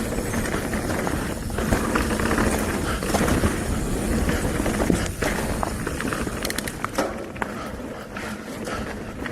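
Mountain bike rolling fast down a dirt trail: steady tyre noise and low rumble over the ground, with repeated sharp clicks and rattles from the bike over the bumps.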